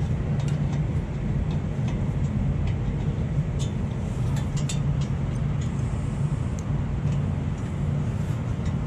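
A steady low rumble fills the background, with scattered light metallic clicks and clinks of wrenches working on the header bolts.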